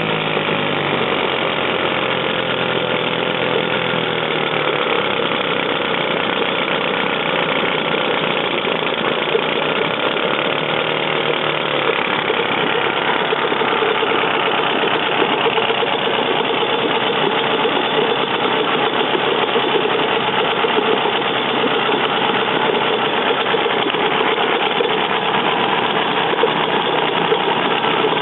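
British Seagull Century outboard motor, a single-cylinder two-stroke, running steadily. Its speed wavers for the first few seconds, then settles and holds even.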